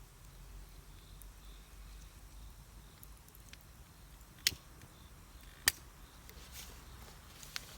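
Wood fire burning with a few sharp crackling pops, the two loudest about halfway through.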